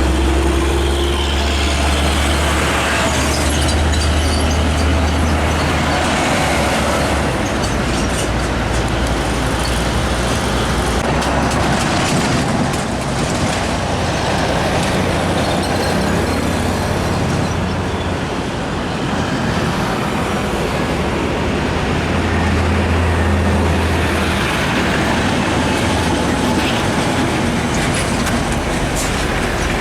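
Heavy road traffic with trucks driving past: a continuous rush of engine and tyre noise, with a deep engine rumble that swells and fades as vehicles pass.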